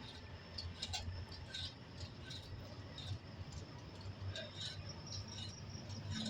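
A cat chewing its food: irregular small crunching clicks, several a second.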